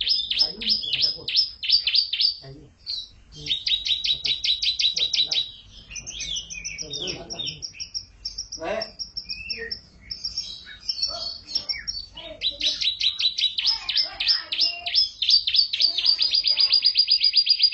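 Domestic canary singing: fast trills of rapidly repeated high notes, broken in the middle by short whistles and chatter, then a long, even rapid trill near the end.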